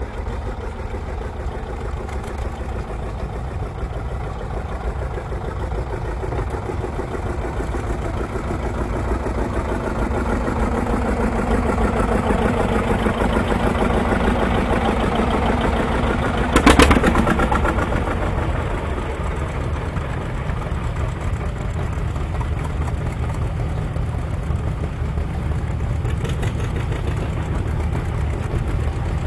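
Tractor engines running in a pull's pit area, a steady low hum; one engine grows louder over several seconds, a brief loud burst comes just past the middle, and the running then carries on lower.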